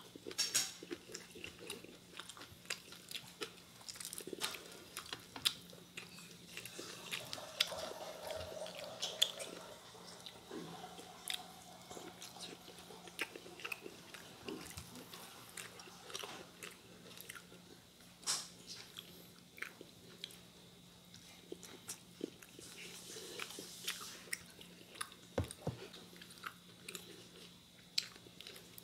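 A person chewing and biting roast chicken close to the microphone, with many short, irregular crunches and clicks.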